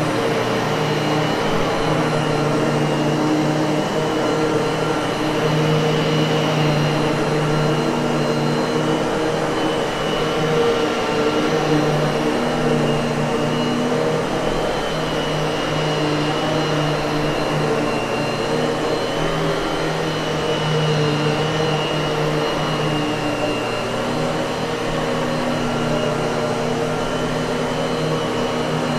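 Miele vacuum cleaner running steadily: an even motor hum and rush of air with a high whine that wavers slightly in pitch.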